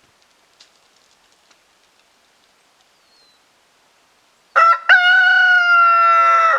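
Black Copper Marans rooster crowing: after a few faint ticks, a loud crow begins about four and a half seconds in, two short opening notes and then a long held note that is still going at the end.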